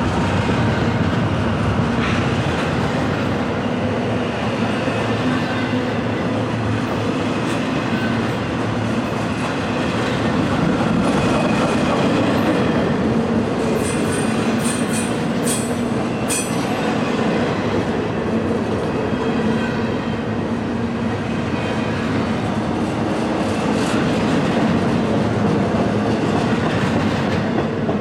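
Freight train rolling past at close range, its wheels and cars clattering steadily over the rails. A few short, sharp high-pitched wheel squeals come about halfway through.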